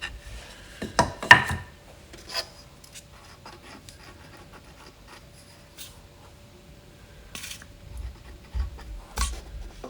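Wooden toolbox parts being handled during glue-up: two sharp wood knocks about a second in, then quieter rubbing and scraping, and a few more knocks near the end.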